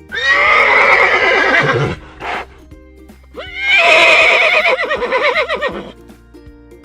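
Horse neighing twice: two whinnies of about two and a half seconds each with a quavering, falling pitch, with a brief breathy burst between them.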